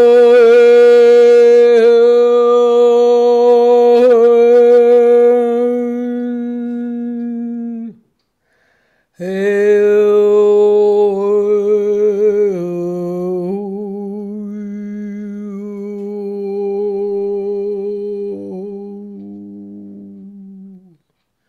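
A woman's wordless vocal toning: one voice holding long, steady notes with a slight waver. The first phrase breaks off about eight seconds in for a breath; the second drops in pitch briefly, returns, and fades out near the end.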